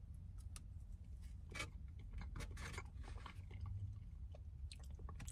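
A person chewing a bite of cheesecake: faint, scattered mouth clicks and smacks over a low steady hum.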